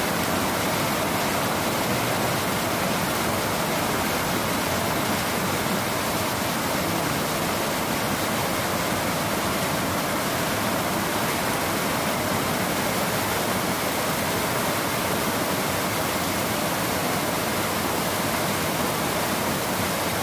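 Steady rain: a continuous, even hiss with no single drops or thunder standing out.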